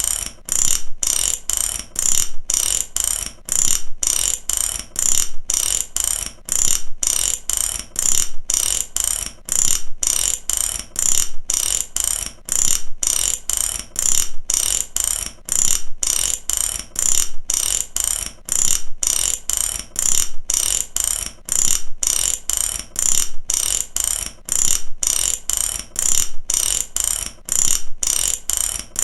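Mechanic's ratchet wrench being worked back and forth: a fast run of sharp metallic clicks from the pawl, coming in repeated strokes with short breaks between them.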